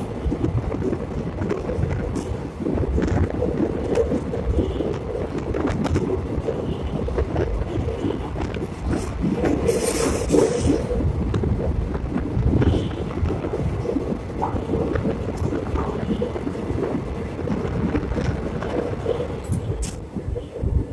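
Passenger train running: a steady rumble with scattered scrapes and clicks from the wheels and carriage.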